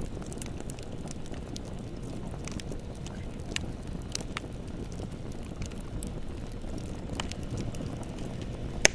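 Bonfire burning: a steady low rush of flames with scattered sharp crackles and pops, one loud pop near the end.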